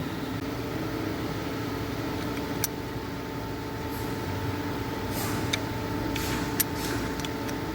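A few light metallic clicks and ticks from a wrench tightening the inhibitor switch mounting bolts: one about two and a half seconds in, then a quick cluster near the end. Under them runs a steady mechanical hum.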